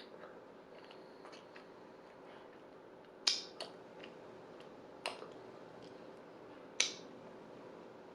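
Quiet eating sounds at a meal: three sharp clicks about a second and a half apart, with a few fainter ticks between them, over a faint steady hum.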